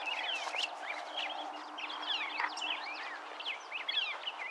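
Songbirds singing: a dense run of quick overlapping chirps and short rising and falling whistles.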